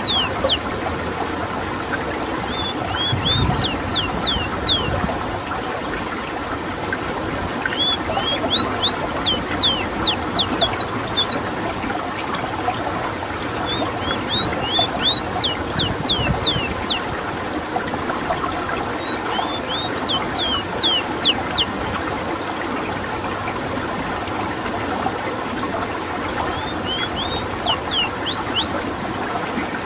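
Ruddy-breasted seedeater (rowti) singing: about five phrases of quick, sweeping high notes, each a second or two long, repeated every few seconds. Under it runs a steady background hiss with a thin constant high tone.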